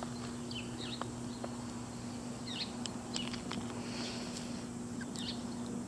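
Faint, scattered bird chirps over a low steady hum, with a few light clicks.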